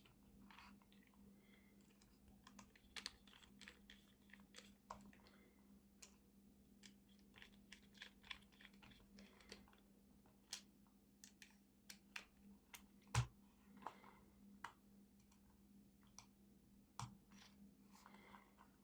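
Faint, irregular clicks and light scrapes of small tools on the plastic and metal parts of a Braun Series 6 electric shaver as it is worked on for a battery replacement, with one sharper knock about 13 seconds in. A faint steady hum runs underneath.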